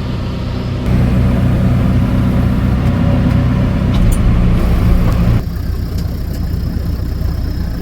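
Engine of a farm vehicle running steadily while backing up a hill with a loaded hay trailer. It works harder and louder from about a second in, then eases back about five and a half seconds in.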